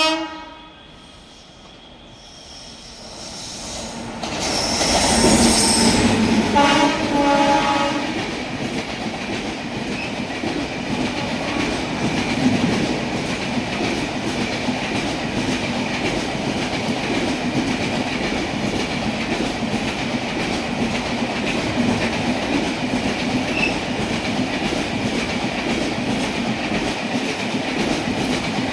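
A WAP-7 electric locomotive hauling a passenger express approaches and passes at speed. It sounds two short horn blasts as it goes by. Its coaches then roll past in a steady rush of wheel and rail noise with clickety-clack.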